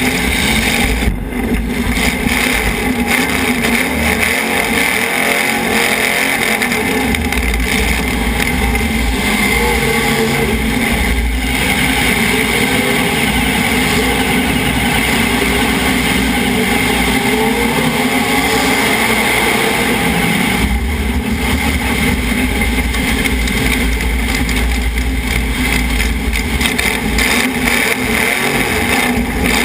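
Demolition derby car's engine running and revving hard, heard from inside the car, loud and continuous.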